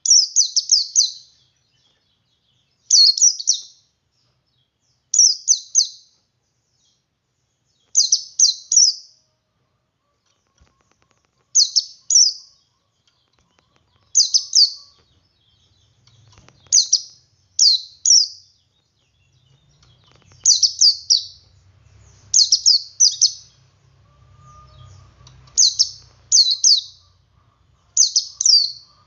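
Male white-eye (pleci, Zosterops) singing in its 'ngalas' style: short, high, rapid chirping phrases of about a second each, repeated every two to three seconds. It is a male's song, used to prompt other white-eyes to sing.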